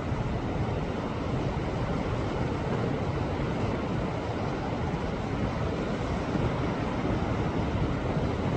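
Sea waves washing against a rocky shore: a steady, even rush of surf with no single crash standing out.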